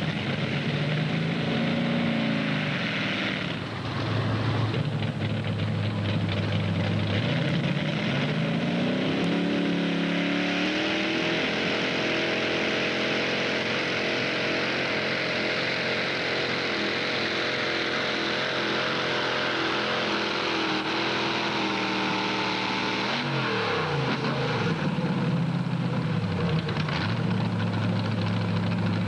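Mini modified pulling tractor's engine revving up and running at high revs under load through a pull, held steady for about ten seconds. Near the end the revs drop sharply and it settles to a low idle.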